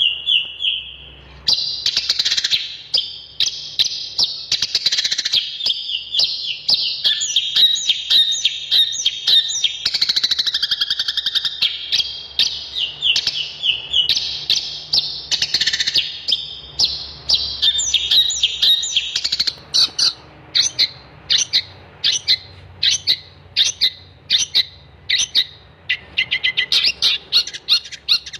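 Long-tailed shrike (cendet) singing a fast, varied, unbroken run of chattering song. From about twenty seconds in it changes to short, sharp notes repeated about twice a second, quickening near the end.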